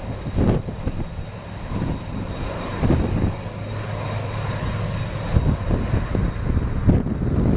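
Boeing 767-300 jet engines running at taxi power, a steady hum with a faint high whine. Strong gusts of wind buffet the microphone in irregular surges.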